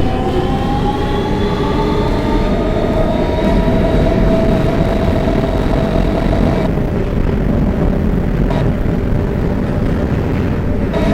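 R160B Siemens subway car's traction motors whining over the steady rumble of the wheels on the rails, the whine rising in pitch during the first couple of seconds as the train accelerates and then holding steady. About seven seconds in, the whine cuts out, leaving the rumble, and it comes back near the end.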